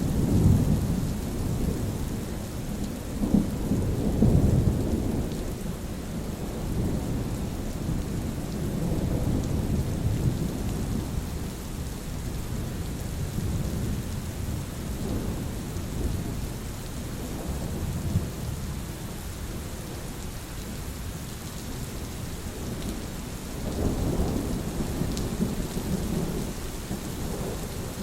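Steady rain with low rolling thunder rumbles that swell in the first few seconds and again near the end.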